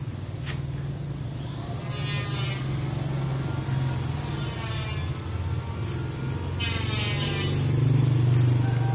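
A motor running steadily with a low hum, swelling somewhat near the end, with brief wavering higher-pitched sounds now and then.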